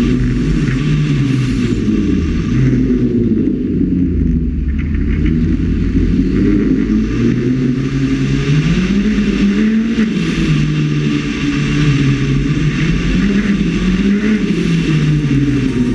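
Rally car engine revving hard and easing off again and again, its pitch climbing and dropping every second or two as the car accelerates and lifts through the course, heard muffled from a roof-mounted camera.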